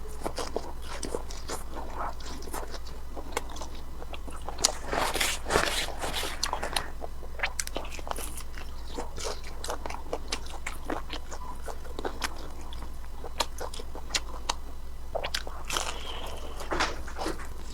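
Close-miked bites and chewing of crunchy food, a run of sharp crisp crunches and clicks that comes thickest about five seconds in and again near the end, over a faint steady low hum.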